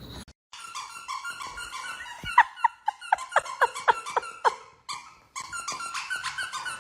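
A dog squealing and whining in rapid high-pitched squeaks, with a run of about seven loud falling yelps at roughly four a second in the middle, a short break, then more squealing.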